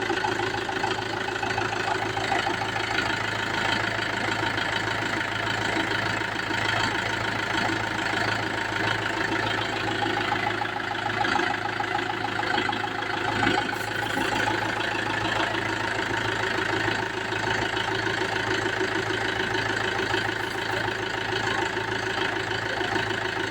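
New Mahindra tractor's diesel engine idling steadily.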